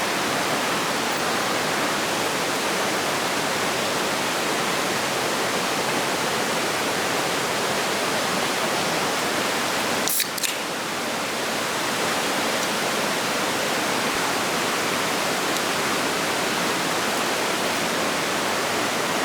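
Steady, even rushing noise with no distinct events, broken by a brief click about ten seconds in.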